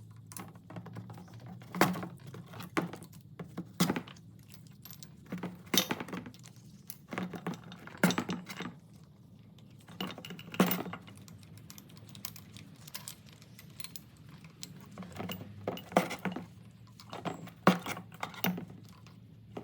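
Steel push rods being pulled out of a Ford 289 V8's valve train, clinking sharply and irregularly, metal on metal, over a steady low hum.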